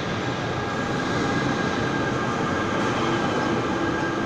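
NJ Transit train of Multilevel double-deck coaches and its electric locomotive rolling past an underground platform: a steady rumble of wheels on rail, echoing in the station, with a faint steady high whine.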